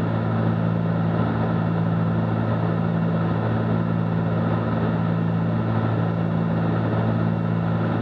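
Cessna 310Q's twin piston engines and propellers droning steadily in flight, heard inside the cockpit.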